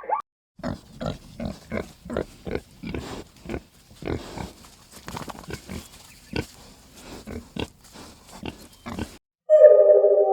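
Pig grunting in a quick run of short grunts, about two a second, stopping about nine seconds in. A sustained synthesizer tone starts near the end and is the loudest sound.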